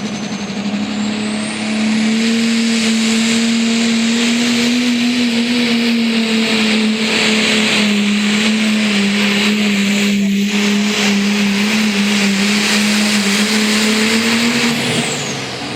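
Modified Oliver pulling tractor's engine running flat out down the track during a pull. A high whine climbs at the start, the engine note holds steady with slight dips in pitch, and then it backs off near the end of the run.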